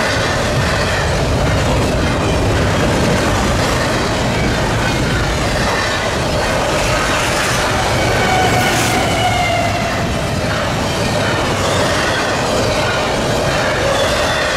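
Freight train cars rolling past at trackside: a steady rumble and clatter of steel wheels on rail, with faint thin wheel-squeal tones.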